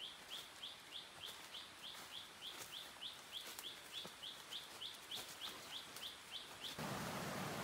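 A bird calling one short, high note over and over, about three times a second. About seven seconds in it cuts off and a steady rush of flowing stream water takes over.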